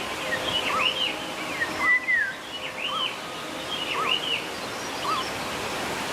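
A bird calling repeatedly: short arched notes, rising then falling, about once a second, each with a fainter lower note, and one longer downslurred note about two seconds in, over steady background hiss.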